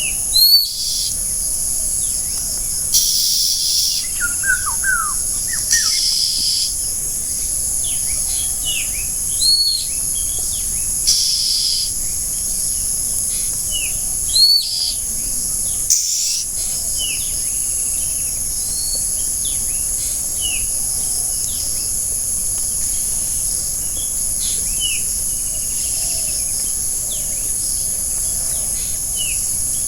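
Forest birds chirping: loud short upswept calls every few seconds among many softer, quicker chirps from several birds. Underneath, an insect chorus keeps up a steady high-pitched drone.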